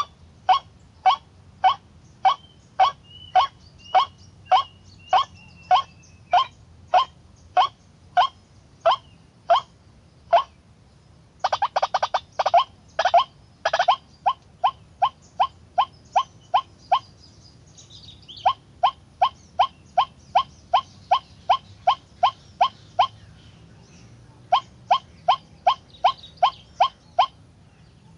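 White-breasted waterhen (kareo, ruak-ruak) calling a long series of loud, evenly spaced croaking notes, about two a second, broken by a few short pauses and a faster, denser burst about twelve seconds in.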